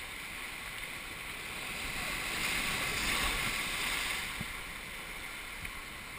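Rushing river water around a raft, a steady hiss that swells louder about two seconds in and eases back a little after four seconds.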